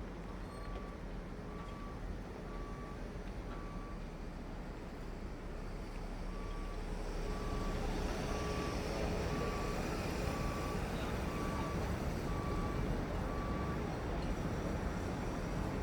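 Reversing alarm on a dockside forklift, a single steady beep repeating about twice a second, over the low running of its diesel engine. The beeping pauses for a couple of seconds about four seconds in, then starts again as the engine gets louder, and stops near the end.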